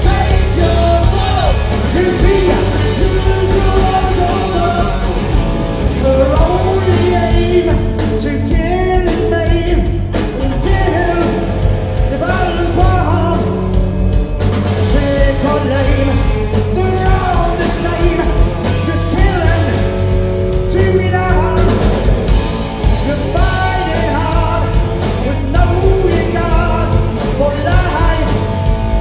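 Live rock band playing, with a singer over the instruments.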